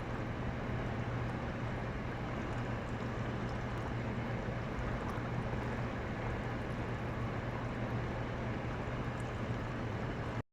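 A steady low mechanical hum with an even hiss over it, unchanging throughout, with a few faint ticks, cutting off suddenly at the very end.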